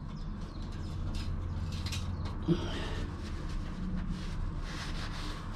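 Light clicks and rustling of hands and tools working in a cramped boat engine bay, over a steady low hum. There is one short grunt about two and a half seconds in.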